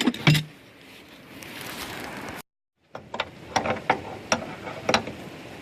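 Hand tools clinking and knocking, a string of sharp separate metal clicks, after a brief dead gap in the sound.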